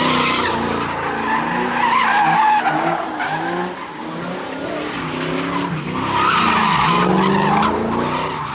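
A car engine revving up and down while its tyres spin and squeal against the pavement. The squealing is loudest in the first couple of seconds and again about six seconds in.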